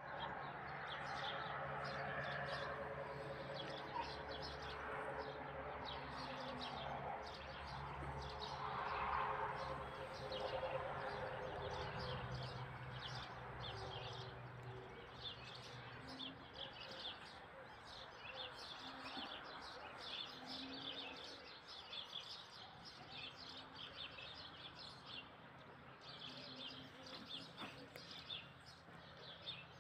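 Many small birds chirping and twittering continually. A low steady hum runs beneath them and fades out about halfway through.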